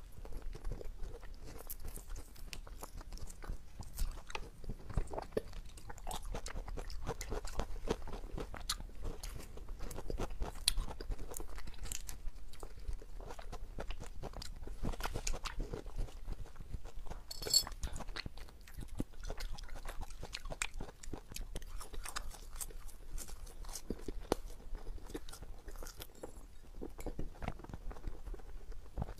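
Close-miked chewing and biting through a lapel microphone: a steady run of short crisp clicks and wet crunches as soft foods, strawberries and marshmallows, are eaten.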